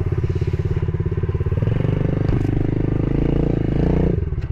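Yamaha TTR110E pit bike's small four-stroke single-cylinder engine running under throttle in too low a gear, a steady, busy engine note that eases off briefly near the end.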